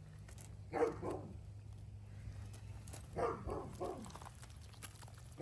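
Muscovy duck giving two bursts of short calls, about a second in and again about three seconds in, while begging for worms.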